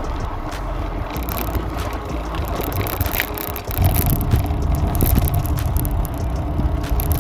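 Ride noise from a Trek FX 2 hybrid bicycle, picked up by a phone on a handlebar mount: tyres on pavement with small rattles and knocks from the bike and mount. A louder low rumble comes in about halfway through.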